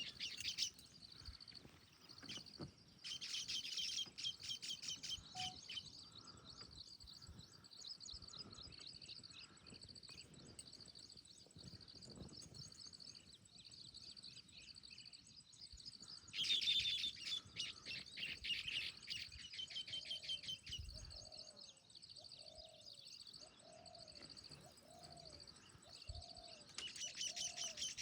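Baya weavers chattering: fast runs of high, buzzy chips, swelling into louder bursts three times. In the last third another bird repeats a short low note about once a second.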